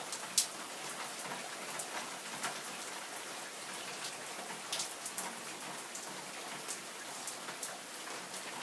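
Heavy rain pouring down in a steady hiss, with many sharp taps of drops striking close by; the loudest tap comes about half a second in.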